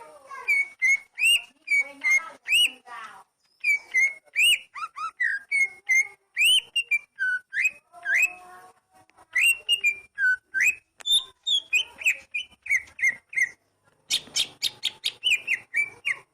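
Oriental magpie-robin (kacer) singing a varied, melodious song of short whistled notes that sweep up and down, mixed with quick chattering runs. A fast burst of notes comes near the end.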